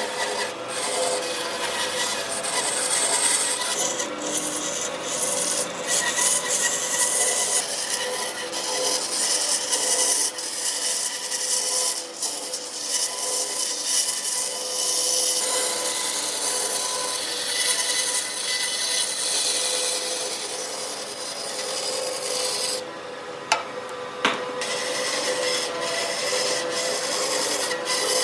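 Wood being abraded: a continuous gritty rubbing, with a steady motor hum underneath. The rubbing eases for a moment about 23 seconds in, where two sharp clicks sound.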